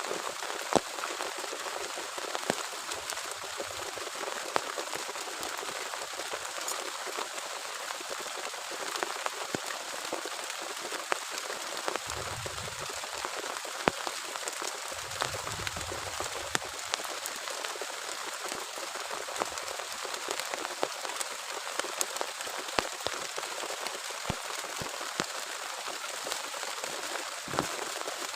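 Heavy rain falling steadily, with many individual drops tapping sharply on a nearby surface. Two short low rumbles come close together about halfway through.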